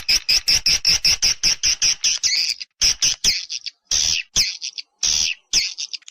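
Edible-nest swiftlets twittering: a fast, continuous run of short, high, clicky chirps, about seven or eight a second, with a few brief pauses.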